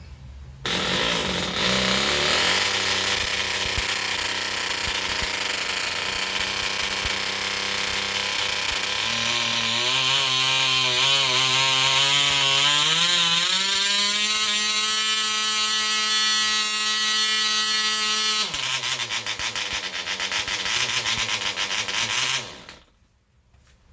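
Small Soviet-made 1984 model-aircraft diesel engine catching about a second in on a cold start and running at high speed, a finger over the venturi serving as choke. Its pitch wavers, then rises and holds steady, drops to a lower speed about two-thirds through, and the engine stops abruptly a second before the end.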